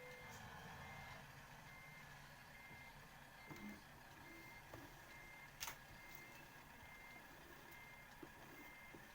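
Reversing warning beeper: a single high tone beeping evenly, a little more than once a second, over a low hum. There is a sharp click about halfway through.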